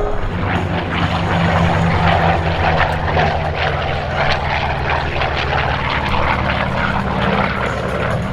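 World War II piston-engine fighter flying past in an air show display, its engine and propeller giving a steady low drone.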